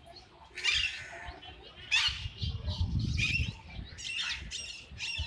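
Birds chirping and calling: short high calls one after another, some sliding in pitch, with a brief low rumble around the middle.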